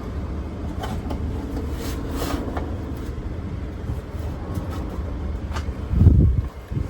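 Light clicks and knocks as a window glass is worked into a truck door, over a steady low rumble, with a heavier low thump about six seconds in.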